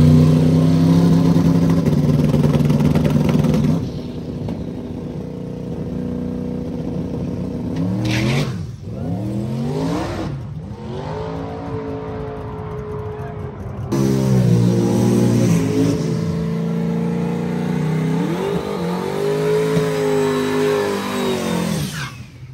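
Drag-race vehicle engines running and revving. A loud steady engine note gives way about four seconds in to several rises and falls in pitch as engines are revved and let down.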